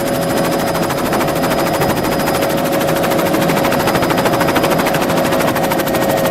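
Helicopter in flight: rotor blades beating in a fast, even chop over a steady engine whine.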